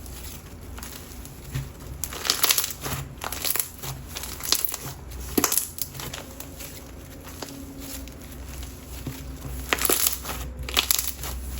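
White glue perlite slime being squeezed and stretched, the perlite crunching and crackling in irregular bursts. The slime is well used and a bit dried out and stringy.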